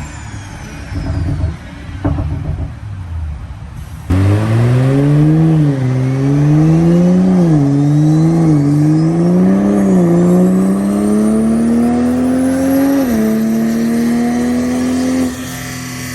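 Toyota GR Supra A90 engine through a stainless steel axle-back exhaust with the rear silencer removed, accelerating hard on a rolling-road dyno. About four seconds in it comes on load suddenly, the pitch climbing again and again with short dips between, then drops to a steady hold and backs off near the end.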